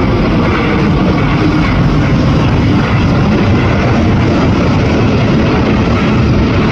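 Airbus A350-1000's two Rolls-Royce Trent XWB turbofans at takeoff thrust: a loud, steady jet roar with a heavy low rumble.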